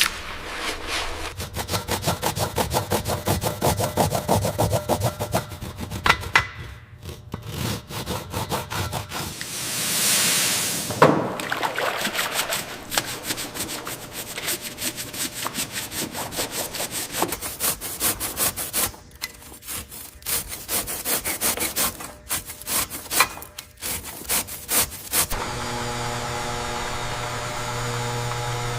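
Rapid back-and-forth scraping or rubbing strokes of hand abrading a surface, with a short pause and a brief hiss partway through. Near the end the strokes stop and a steady electric hum begins.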